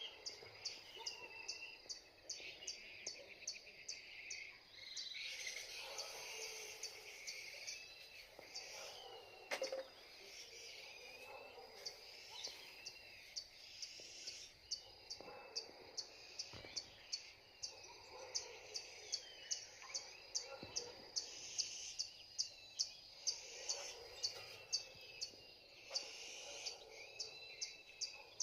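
Wild birds singing and calling, with a high, short chirp repeated about twice a second throughout.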